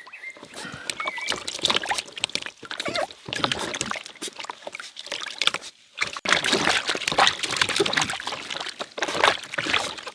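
Water splashing and sloshing in irregular bursts as a dog is washed, with a brief pause about six seconds in.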